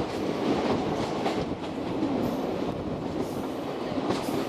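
Steady rushing roar and wheel clatter of an Indian Railways passenger train's coaches passing close on the adjacent track, heard from the open door of a moving express as the two trains cross at speed.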